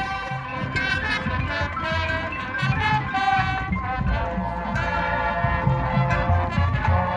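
Marching band playing: brass holding chords over low drum hits, the chord changing about four seconds in.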